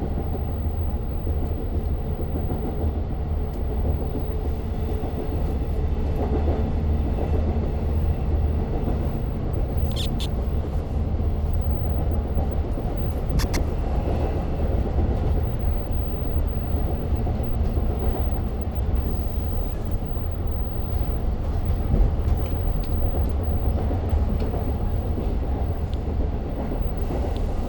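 Long Island Rail Road passenger train running between stations, heard inside the car: a steady low rumble with a few brief clicks and rattles.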